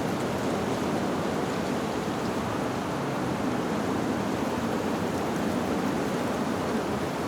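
Wind blowing through tree leaves: a steady rushing rustle that holds an even level throughout.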